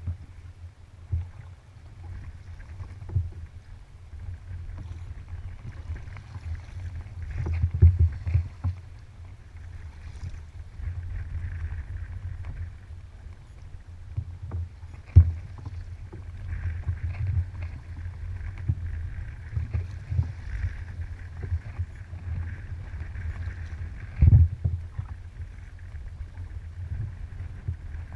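Kayak moving through open water: water splashing and trickling from the paddle strokes over a steady low rumble, with a few sharp louder thumps, the loudest about 8, 15 and 24 seconds in.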